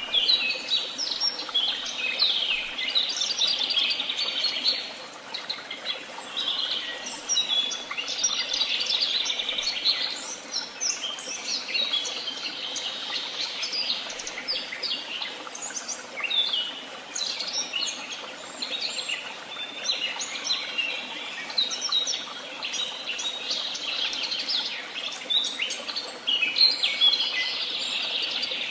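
Several songbirds singing at once: a dense, overlapping chorus of chirps, whistles and fast trills that carries on throughout.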